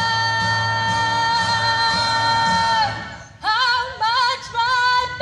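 A woman singing a long held final note with vibrato over a backing track, ending about three seconds in. Then come three short, high whoops from the audience.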